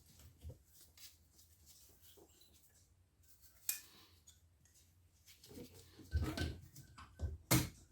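Scattered faint clicks and knocks of hand tools and engine parts being handled, with a sharp click a few seconds in and a cluster of louder knocks near the end, the last the loudest.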